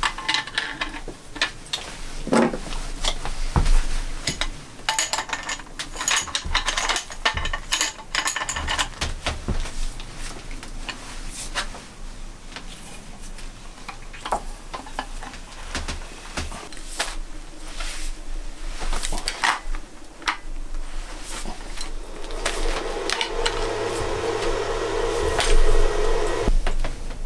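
Hands-on work with objects: an irregular run of clicks, knocks and clatter, then a steady mechanical hum for a few seconds near the end.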